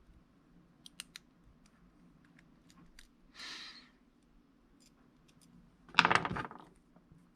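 Small sharp clicks and handling noises from fiddling with small drone gimbal parts, with a soft rush of noise midway and a louder short burst of noise about six seconds in.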